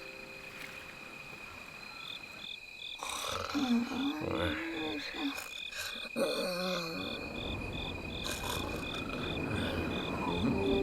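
Cartoon night ambience: crickets chirping in a steady pulsing rhythm of about two chirps a second, with a couple of wavering croak-like calls in the middle.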